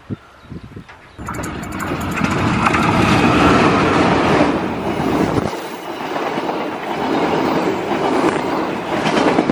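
A KAI CC 204 diesel-electric locomotive hauling a passenger train passes close by, growing loud about a second in. About five seconds in, its deep engine sound drops away, leaving the rushing of the coaches rolling past on the rails.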